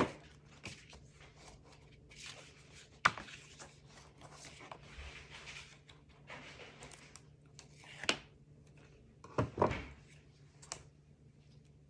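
Cardstock being handled and bent into shape: paper rustling and crinkling, with several sharp taps and knocks on the work table, the loudest about a second and a half before the end.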